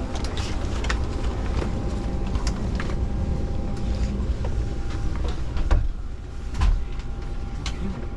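Cabin noise inside an E257 series express train car: a steady low rumble with a thin steady whine and scattered small clicks and knocks, the loudest knocks a little before six seconds in and near seven seconds.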